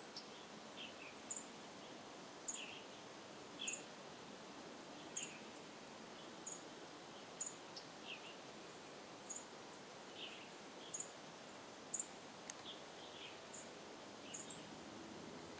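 Small songbird giving short, thin, high chirps about once a second, over a steady background hiss.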